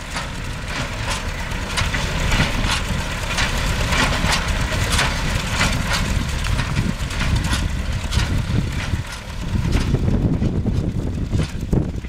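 MTZ-5 tractor's diesel engine running under load, driving a Vestjyden hay baler whose mechanism knocks at a regular beat of about one to two strokes a second. The knocks fade out after about eight seconds, leaving the engine's rumble and wind on the microphone.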